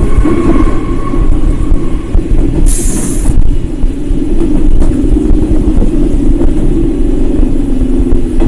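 Eizan Electric Railway train running, heard from inside the car: a steady low rumble of wheels and running gear, with a short hiss about three seconds in.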